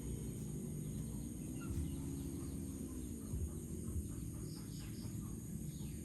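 Small pet parrots chirping faintly and sparsely, with a few short high chirps near the end, over a steady low background rumble.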